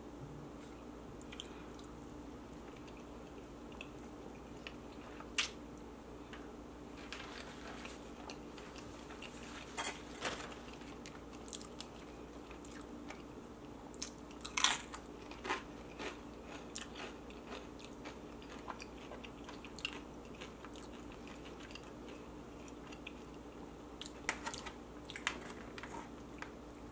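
Close-miked biting and chewing of a salsa-dipped chicken quesadilla, with scattered wet clicks and crunches over a faint steady hum.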